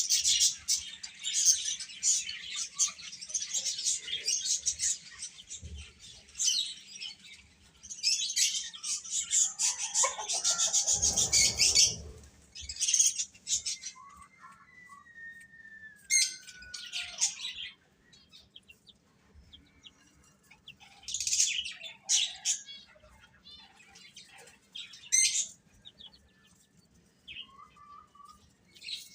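Baby chicks peeping: dense, rapid high chirps for the first dozen seconds, then scattered groups of chirps with pauses between. A short low rumble about ten seconds in.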